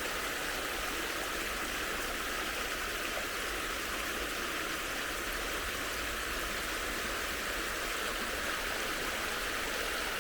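Stream water rippling over stones in a small waterfall: a steady, even rush.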